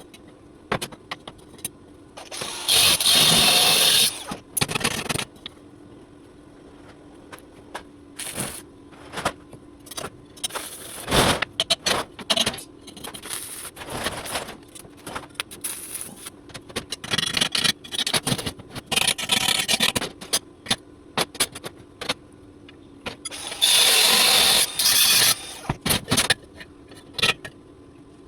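Metal workshop sounds: scattered clanks and knocks of steel pieces being handled, with two loud crackling hiss bursts of about a second and a half each, a few seconds in and near the end, typical of short stick-welding tack arcs.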